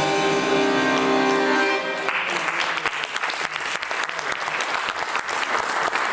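The song's final chord is held and ends about two seconds in. The audience then breaks into steady clapping.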